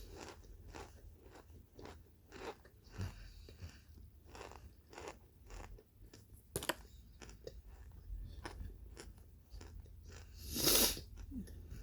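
Close-up chewing of crunchy microwaved Kingsford cornstarch chunks: a string of sharp crunches, a few a second, with one louder, longer burst about a second before the end.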